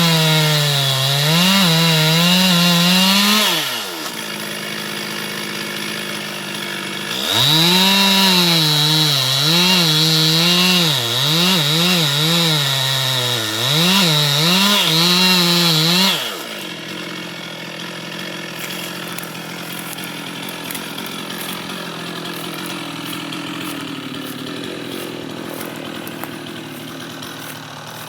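Chainsaw run at full throttle in two bursts, its pitch dipping and recovering again and again as the chain bogs down in the wood. It drops back to a low running sound at about three and a half seconds, revs up again at about seven seconds until about sixteen seconds, then falls back to a quieter idle.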